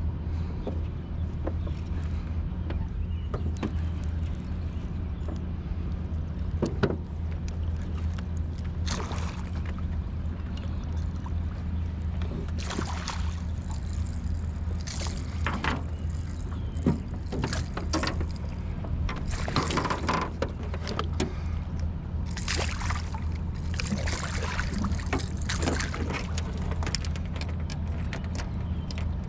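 Boat motor running at a steady low hum, with water splashing and sloshing now and then, most often in the second half.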